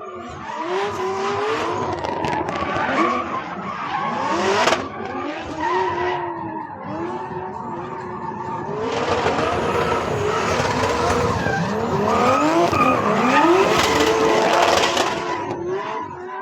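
A drift car's engine revving hard up and down over and over while its tyres squeal and scrub through the drift, getting louder about halfway through.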